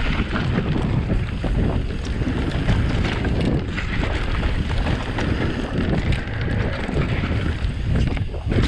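Wind buffeting the camera's microphone while riding, a loud, steady, rumbling rush with no clear tone.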